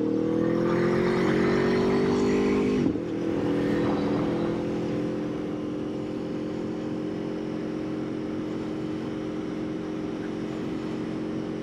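2021 Aprilia Tuono V4's V4 engine running under way, its note rising slightly for the first few seconds. It dips briefly just before three seconds in, then holds a steady note.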